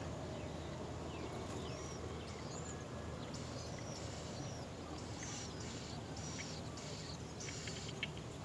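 Small birds chirping: many short, high-pitched calls and brief gliding notes, over a steady low background rumble.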